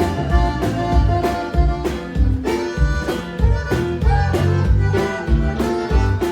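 Live Tejano band playing an instrumental passage: sustained accordion-like melody notes over bass and drums keeping a steady beat about twice a second.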